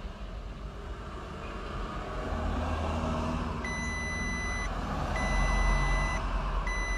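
A vehicle's reversing alarm beeping three times, each a steady high beep about a second long with short gaps, starting about halfway in, over a low running engine.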